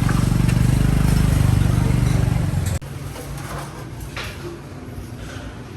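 An engine running close by with a steady low pulsing note, which cuts off abruptly about three seconds in, leaving a quieter busy background with a few light clicks.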